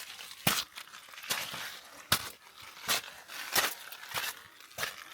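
Footsteps crunching on loose, gritty ground at an even walking pace, a step about every three quarters of a second.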